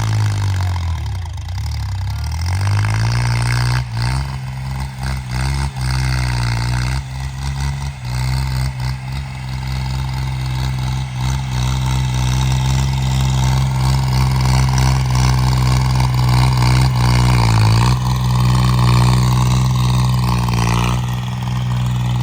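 Home-made tractor's engine running steadily under load. Its speed sags and recovers about a second in and dips briefly again near the end. Some short knocks are heard between about 4 and 8 seconds.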